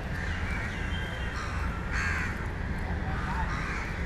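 Harsh bird calls repeating every second or so, the loudest about two seconds in, over a steady low rumble.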